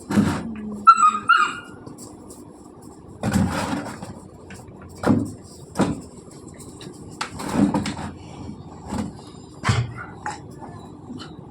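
Puppy yapping and yelping in short separate bursts during a fight, with a brief high yelp about a second in.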